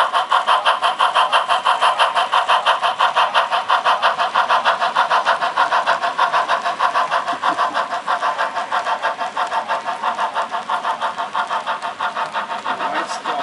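Sound-equipped HO scale model steam locomotive chuffing steadily, about four chuffs a second, as it pulls its train.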